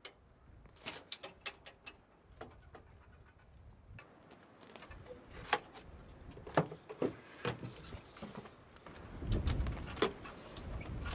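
Scattered light clicks and knocks at irregular intervals. Wind buffets the microphone with a low rumble from about nine seconds in.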